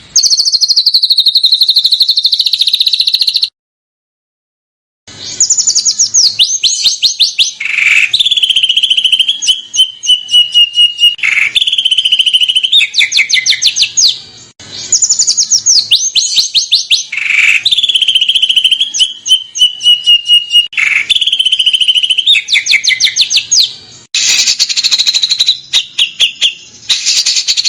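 Recorded songbird song: a fast high trill that falls in pitch, a short gap, then rapid rattling trills and sharp downward-sweeping notes, the same string of phrases played twice over.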